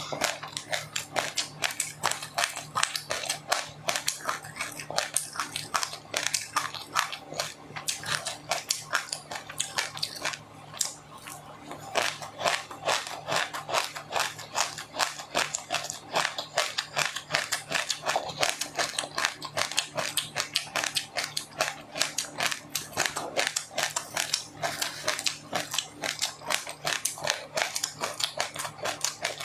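Close-up chewing of crunchy food, a mouthful of seeds and crisped rice: rapid, continuous crunching and crackling with wet mouth clicks, several crunches a second, over a faint steady low hum.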